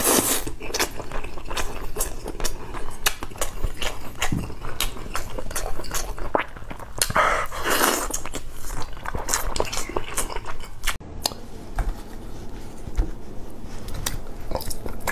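Close-miked chewing and wet lip-smacking as a man eats pork with his fingers, with many short sticky clicks and a longer, louder wet sound about seven seconds in.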